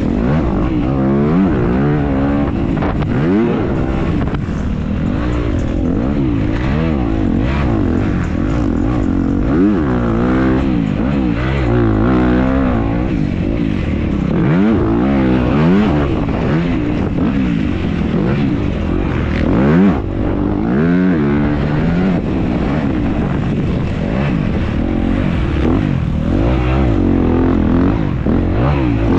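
Dirt bike engine racing, revving up and falling back over and over as the rider works the throttle and shifts through the gears.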